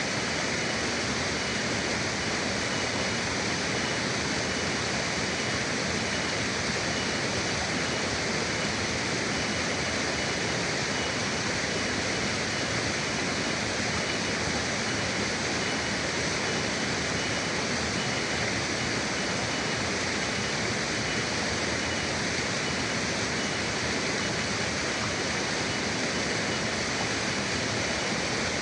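River water rushing steadily, an even, unbroken hiss of flowing water, with a faint steady high tone running through it.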